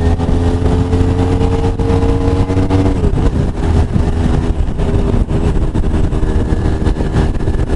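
Sport motorcycle engine running at a steady cruise, heard from the rider's seat with wind rush underneath. About three seconds in, the engine note wavers and settles at a lower steady pitch.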